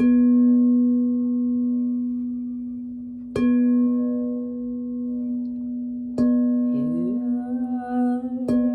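Singing bowl tuned to B struck four times about three seconds apart, each strike renewing a steady ringing tone with higher overtones. A voice starts humming along with the bowl near the end.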